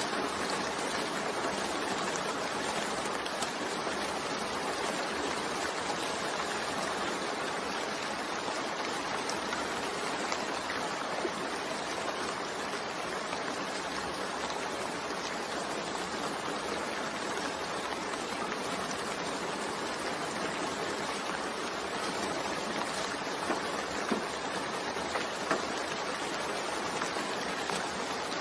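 Steady rain falling: a dense, even hiss that does not let up, with a few brief louder drop ticks near the end.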